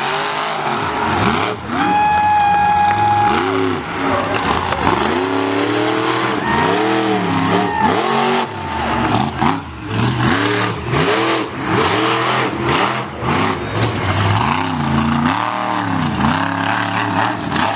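Monster truck engine revving hard, its pitch climbing and dropping again and again in quick succession. A held high squeal sounds briefly about two seconds in and again around seven seconds.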